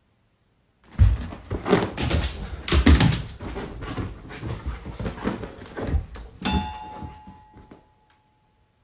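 A run of irregular thumps and knocks, with a steady electronic beep for about two seconds near the end.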